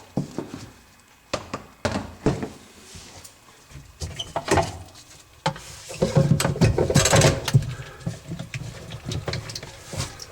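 Dishwasher parts being handled and fitted back in place: scattered clicks and knocks with scraping, and a longer stretch of rattling and scraping about six seconds in.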